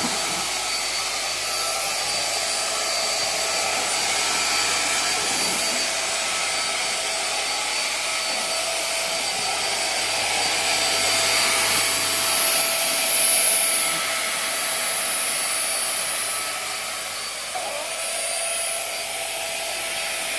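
Small handheld vacuum cleaner running steadily: a rush of air with a high motor whine, swelling a little louder for a couple of seconds past the middle.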